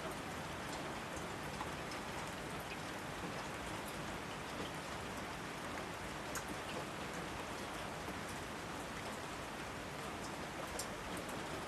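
Steady rainfall, an even hiss with scattered individual drops ticking close by.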